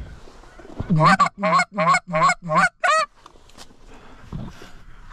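Goose honking: a quick run of six loud, evenly spaced honks about a second in, then fainter, scattered sounds.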